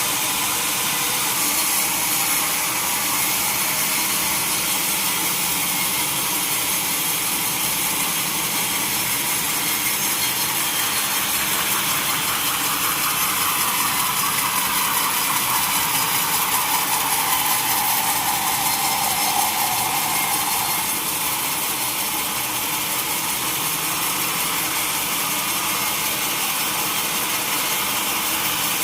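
Sawmill saw cutting a solid mahogany log, running steadily. In the middle a whine slides down in pitch over several seconds, then stops.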